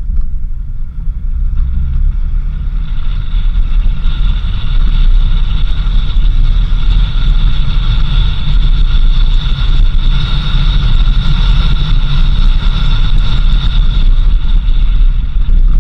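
A 4x4 vehicle driving along a dirt road: a steady low rumble of engine and tyres with wind buffeting the microphone. A steady high hiss rises in a few seconds in and stays.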